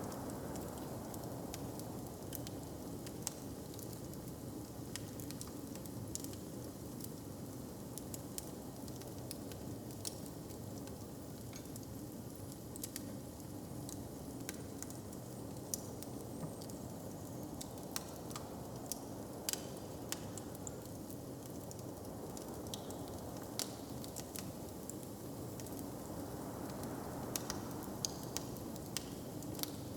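Wood fire crackling, with sharp pops scattered irregularly over a steady low background rush.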